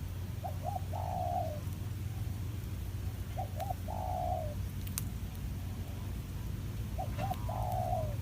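A dove cooing three times, each phrase two short notes followed by a longer note that falls away at the end, over a steady low hum.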